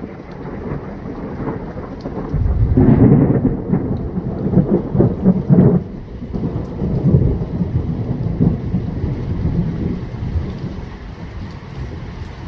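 A long roll of thunder: a deep rumble that swells, is loudest from about two to six seconds in with rolling peaks, then rumbles on more softly and fades out.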